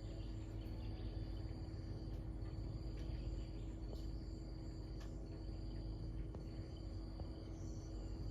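Insects trilling in a steady high note that breaks off briefly every second or so, over a low rumble.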